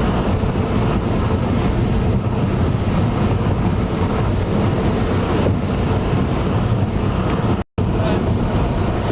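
Steady road and tyre noise inside a moving car's cabin, the tyres running over worn, patched asphalt. The sound cuts out for a split second about three-quarters of the way through.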